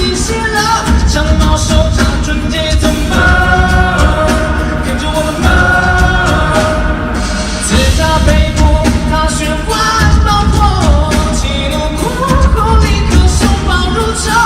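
Live pop-rock band with a male lead vocalist singing, a heavy low end throughout.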